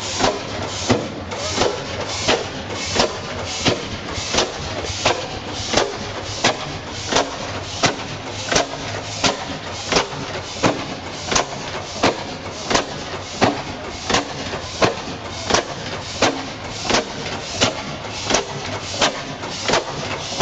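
A large two-cylinder, 200 rpm Western Machine stationary engine running steadily, its firing coming as sharp, even beats about one and a half times a second.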